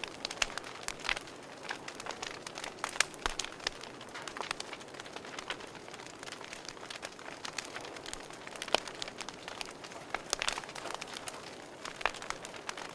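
Wood fire burning in a fireplace, crackling: irregular sharp snaps and pops, a few louder than the rest, over a soft steady hiss of the flames.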